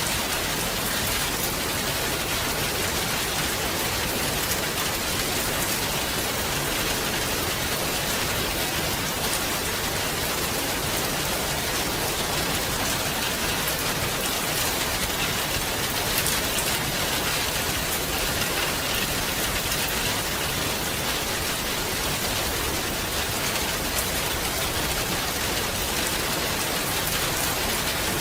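Steady rain falling on a surface, a dense even hiss of drops with fine individual drop ticks throughout.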